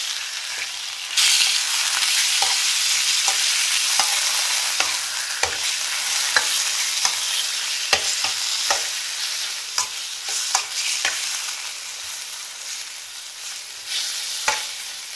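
Chicken pieces sizzling in hot oil in a metal karahi while a metal spoon stirs them, clinking and scraping against the pan. The sizzle gets louder about a second in and eases off slowly toward the end.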